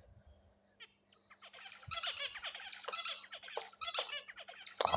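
King quail giving a quick run of high-pitched squeaky chirps from about a second in.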